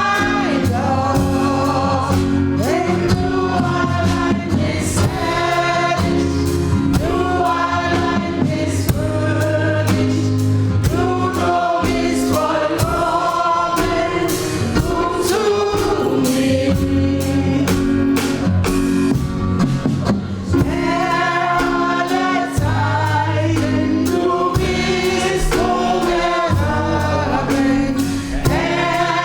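Gospel choir singing in harmony, with a band accompanying on drums and bass.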